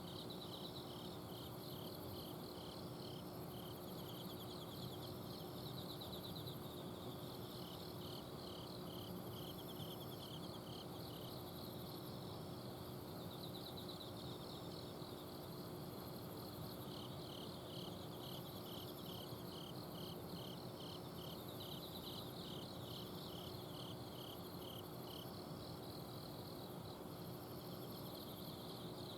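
Night chorus of autumn insects, several kinds of crickets at once: some give evenly spaced chirps, about two a second, that stop and start in runs, while others trill continuously and higher. Under them runs the steady hum of an air conditioner's outdoor unit.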